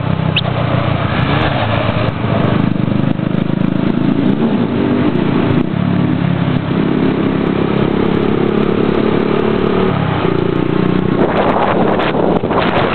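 Motorcycle engine running and revving, its pitch shifting up and down, with a rougher, noisier stretch near the end.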